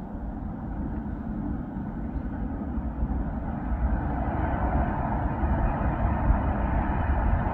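Electric passenger train running past on the rails with a steady rumble, growing louder as it approaches.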